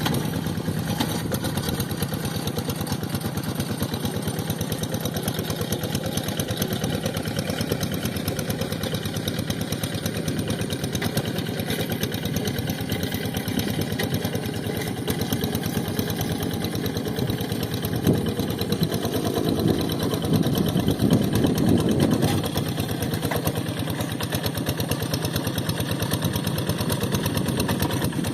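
Two-wheel rice field tractor's single-cylinder diesel engine running steadily with a fast, even chug, swelling louder for a few seconds about two-thirds of the way through.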